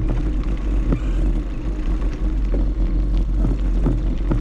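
Wind buffeting the microphone of a camera on a moving bicycle, a loud, steady rumble with faint ticks and rattles over it.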